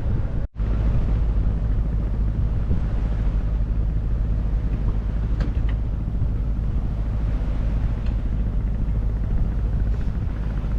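Steady low rumble and rushing wind-and-water noise of a Jeanneau 64 sailboat under way, broken by a brief gap about half a second in.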